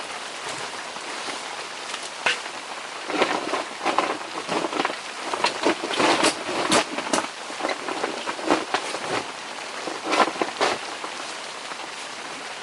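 Wind buffeting the fabric of a tent, heard from inside: a steady rushing hiss with irregular gusts that make the walls flap and crackle.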